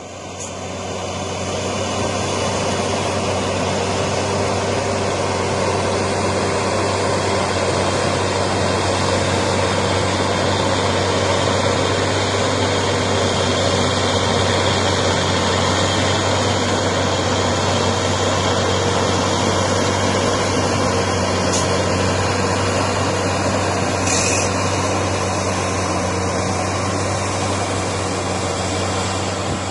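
Fendt Vario tractor's six-cylinder turbo diesel running steadily with a deep, even hum, rising in over the first second or two and easing off near the end.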